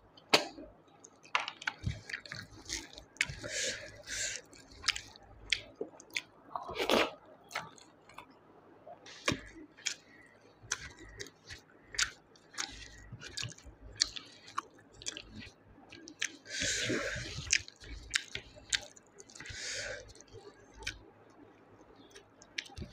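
Close-miked mouth sounds of eating snail curry and rice by hand: wet chewing and lip smacks, with several louder sucking slurps about a second long as snails are sucked from their shells.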